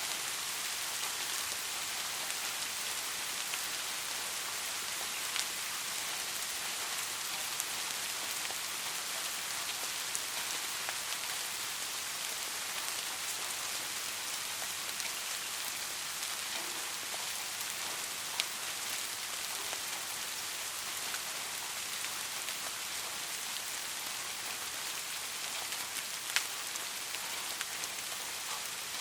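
Light rain falling steadily as an even hiss, with occasional sharper single drop ticks, the clearest about eighteen and twenty-six seconds in.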